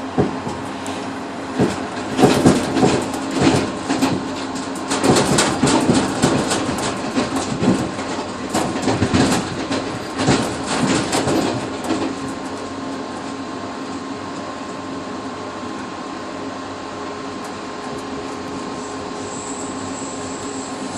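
Passenger train wheels running on the rails, heard from inside the rear cab vestibule of the tail car. Over roughly the first twelve seconds there is a loud, irregular clatter of clicks and knocks as the wheels cross track joints. After that it settles into steady rolling noise with a constant hum, and a faint high squeal comes in near the end.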